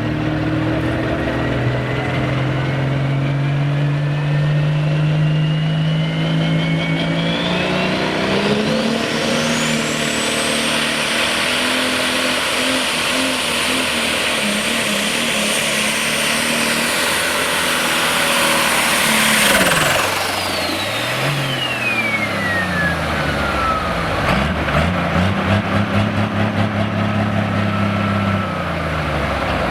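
Turbocharged diesel super stock pulling tractor at full power down the track, its turbo whine climbing to a high scream and holding. About 20 seconds in the driver lets off: the scream cuts and winds down while the engine drops back, running with rapid popping near the end.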